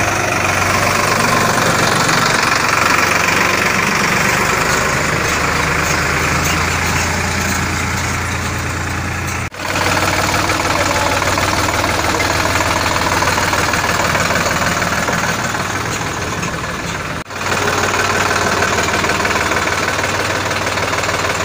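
Sonalika DI-42 RX tractor's diesel engine running steadily, breaking off for an instant twice, about nine and about seventeen seconds in.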